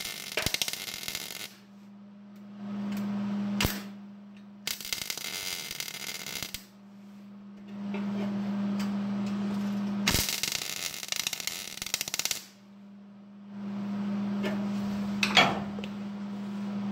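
Welder laying short crackling bursts of weld on thin automotive sheet metal, three bursts of a second or two each with pauses between, the welder turned down low for the thin metal. A steady low hum runs underneath, with a couple of sharp clicks.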